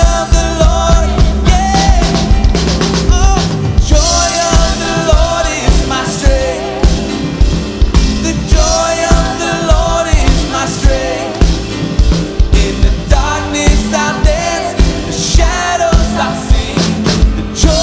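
Live worship band music: drum kit playing a steady rock beat with bass guitar and piano, and voices singing over it.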